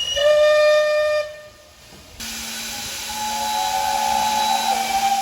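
Steam locomotive whistle: a single clear note held for about a second, then, after a brief lull, another whistle sounding more faintly over loud steam hiss and a steady low hum.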